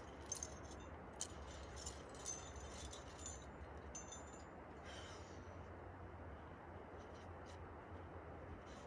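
Metal climbing gear on a trad rack, carabiners and cams, clinking in several light jingles over the first four seconds, then one softer clink about five seconds in, over a faint steady hiss.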